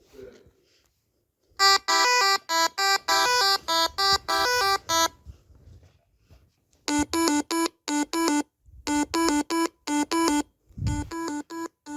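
Electronic tune of quick, evenly held beeping notes stepping up and down in pitch, played in two runs with a pause of about two seconds between them. A short low thump comes near the end.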